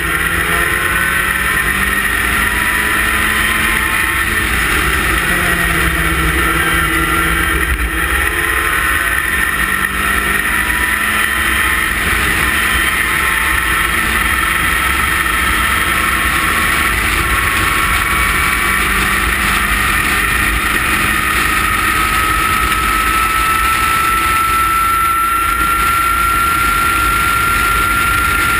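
Westfield sports car's engine running hard on a race circuit, heard from the open cockpit. The revs rise and fall through the lap, with a long, slow climb in pitch over the last several seconds as it accelerates down a straight. Heavy low wind rumble is on the microphone.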